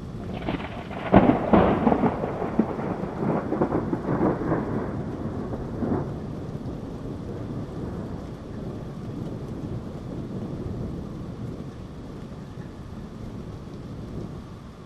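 A thunderclap: a sharp, crackling crack about a second in, then repeated crackles for several seconds that settle into a long rolling rumble, slowly fading, over a steady hiss of rain.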